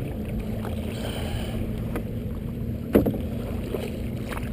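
Canoe being paddled on wavy water, with steady wind rumble on the microphone and two sharp knocks, one right at the start and one about three seconds in.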